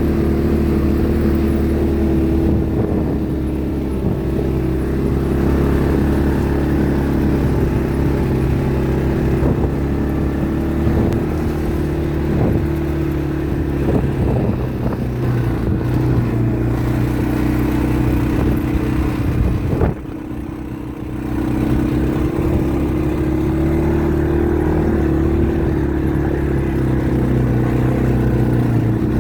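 ATV engine running steadily under way, easing off briefly about two-thirds of the way through before picking up again.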